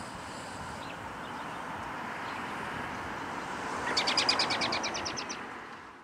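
A bird gives a fast, rattling trill of about ten notes a second, lasting over a second, starting about four seconds in. A few faint chirps come before it. Under it all runs a steady background hiss, and the sound fades out at the very end.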